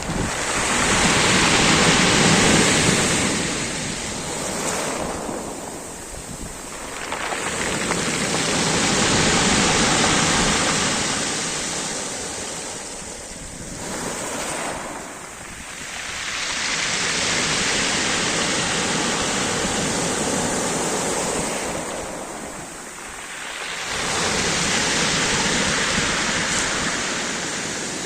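Sea surf breaking on the shore: the wash swells and fades in about four long surges several seconds apart, with wind rumbling on the microphone underneath.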